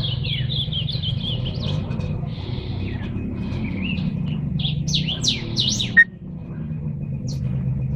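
Several cage birds chirping and singing, with quick rising and falling notes and short trills, over a steady low hum. A single sharp knock about six seconds in.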